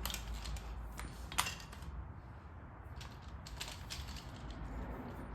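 Scattered light metallic clicks and taps from tools working on a differential pinion, with one sharper click about a second and a half in.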